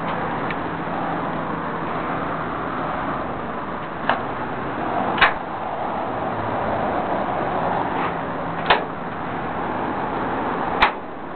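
1966 Chevy truck running steadily, with four sharp clicks or knocks over the top, the last one near the end.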